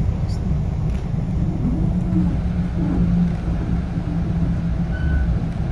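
Steady low rumble inside a moving passenger train car, running along the track.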